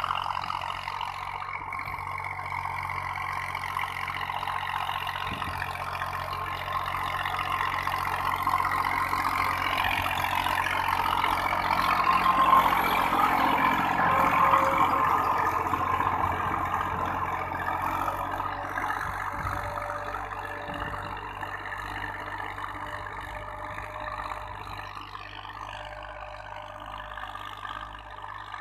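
Farm tractor's diesel engine running steadily, getting louder to a peak about halfway through and then fading.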